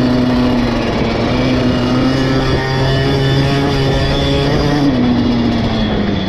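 KTM 50 SX single-cylinder two-stroke motocross engine running hard at high revs, its pitch holding fairly level and then dropping as the throttle eases off about five seconds in.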